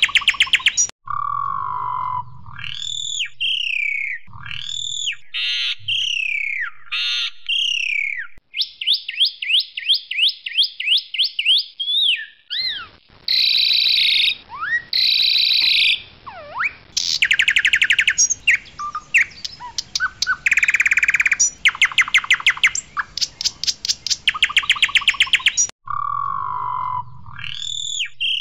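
Pied myna (jalak suren) singing a loud, varied song: clear whistles that slide up and down, fast runs of repeated notes, and harsh rattling buzzes. The same string of phrases starts over near the end.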